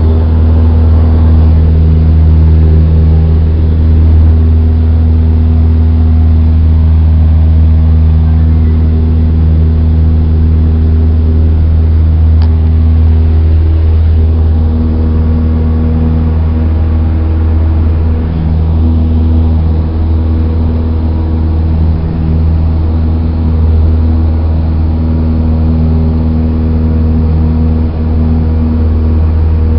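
Cessna 172's four-cylinder piston engine and propeller running with a steady drone, holding a constant pitch throughout.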